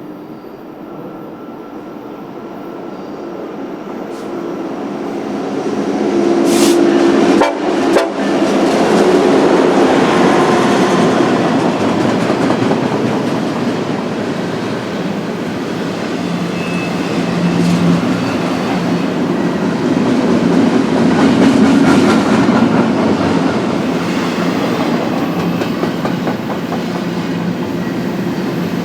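Westbound BNSF freight train with double-stack intermodal cars approaching, growing louder over the first several seconds, then passing close by with a steady rumble and rattle of cars on the rails.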